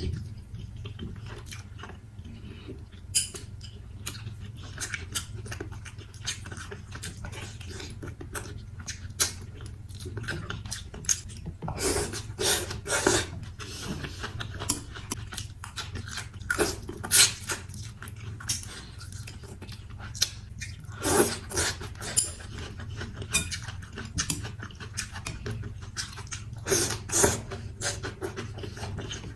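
A person eating noodles and chicken close to the microphone: wet chewing and mouth smacks, with the odd tap of a utensil against the bowl, at an uneven pace over a steady low hum.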